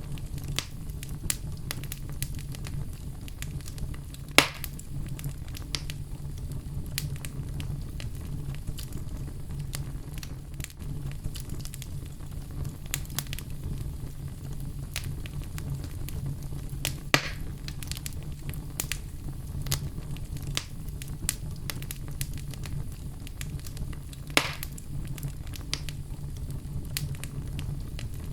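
Oak logs burning in a fireplace: a steady low rumble of flame under frequent small crackles, with three louder pops, a few seconds in, past the middle and near the end.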